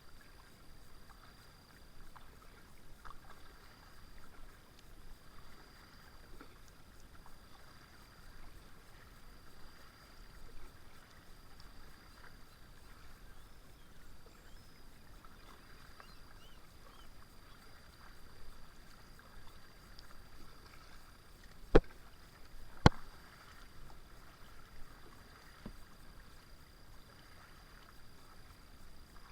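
Kayak paddle strokes dipping and dripping in the water, in small irregular swells. Two sharp knocks about a second apart, about two-thirds of the way through, stand out as the loudest sounds.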